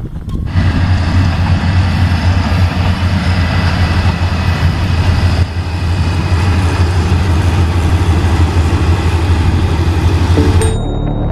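Diesel passenger train running across a concrete railway viaduct: a steady, loud low engine drone with rolling wheel noise. Music starts near the end.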